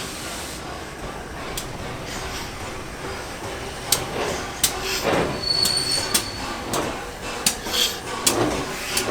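Railway train on the move: a steady rumble, then from about four seconds in a string of irregular metallic clanks and knocks that grow louder, with a brief high-pitched squeal about halfway through.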